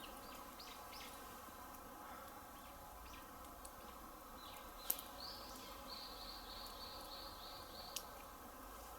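Faint outdoor ambience with birds calling: a few short chirps near the start, then a quick run of repeated high chirps through the second half. Two sharp clicks are heard, the louder one about halfway through and another near the end.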